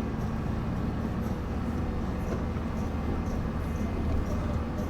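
Delivery truck's engine and road noise heard from inside the cab while driving: a steady low rumble.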